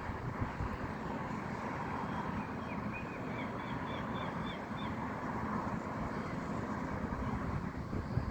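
Steady outdoor rumble, with a quick run of about ten short, high calls from a gull a few seconds in.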